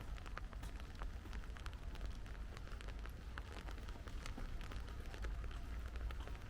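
Steady rain falling, with many irregular drop ticks over a low rumble.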